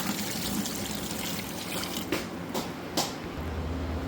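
Water pouring into a bucket in a steady stream, with a few light knocks a couple of seconds in.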